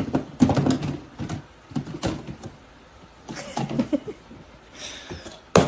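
A drawer being pulled open and pushed about, with irregular knocks and rattles, and a sharp knock near the end.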